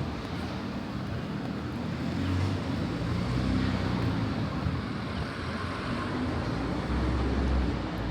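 Steady city street ambience: a low rumble of passing traffic that swells twice.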